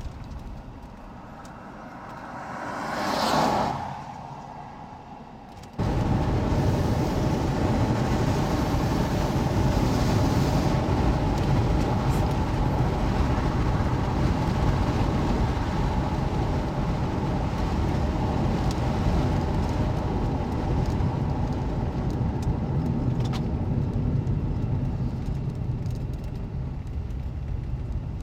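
A vehicle swells past and fades about three seconds in. About six seconds in, the sound cuts suddenly to a loud, steady rumbling noise.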